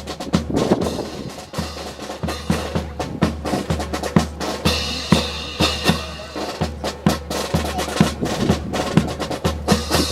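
Marching drums of a brass band playing a steady cadence, with snare and bass drum strokes at an even beat.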